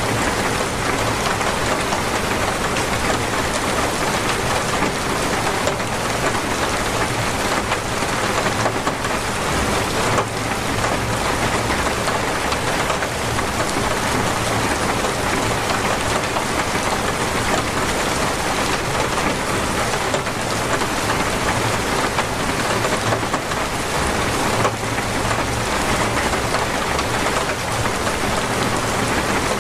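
Heavy, torrential rain falling in a steady, dense hiss, with no breaks.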